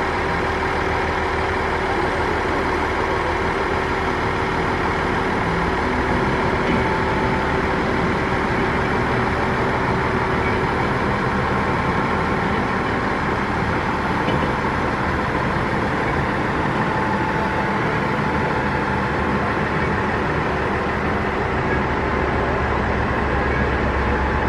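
Diesel railcar engine idling steadily.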